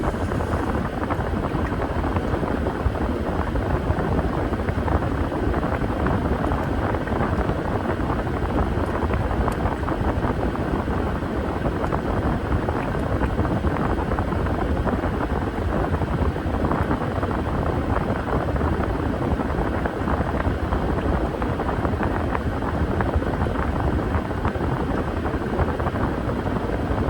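Washing machine running: a steady, even churning rumble with no change in pace.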